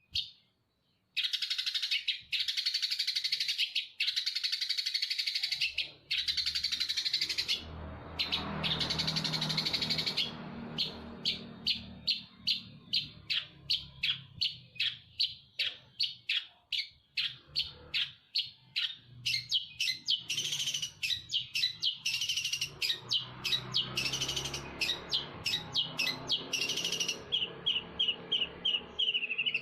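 Songbird giving sparrow-style calls. Several long, harsh, buzzy chatters come first, then from about ten seconds in a long run of quick repeated chirps, two to three a second, with a few buzzy phrases mixed in.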